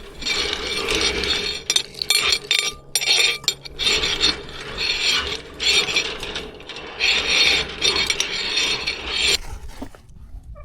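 A yacht's roller-furler drum being wound in by hand, ratcheting and rasping in spurts with short pauses. It stops about a second before the end.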